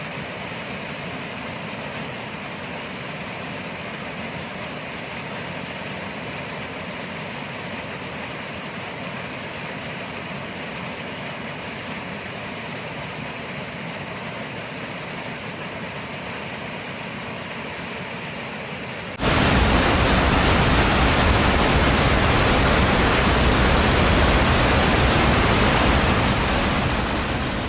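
Steady rushing noise. About two-thirds of the way in it switches abruptly to a louder, even hiss, which begins to fade out near the end.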